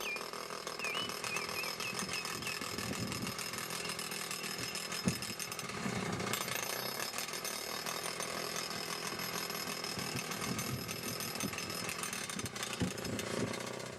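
Atlas Copco Cobra Combi petrol breaker at work in asphalt: its two-stroke engine running with the built-in impact mechanism hammering the chisel rapidly and steadily.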